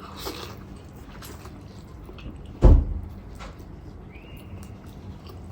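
A single heavy thump about two and a half seconds in, between faint small clicks and rustles.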